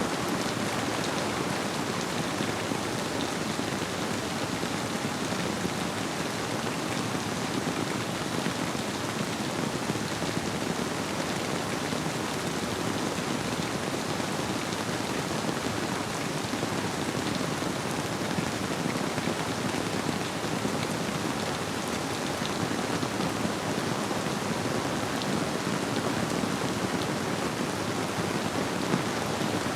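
Steady rainfall: an even, unbroken wash of many raindrops, with a few sharper drop hits standing out.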